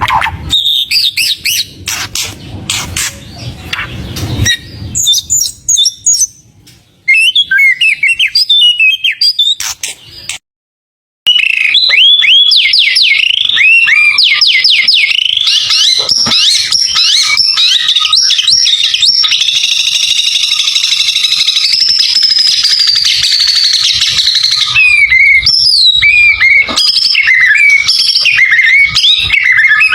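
White-rumped shama (murai batu) singing a loud, varied song of fast whistled phrases and rapid rising and falling notes. The song cuts out completely for under a second about ten seconds in, then carries on as a long unbroken run of quick whistles.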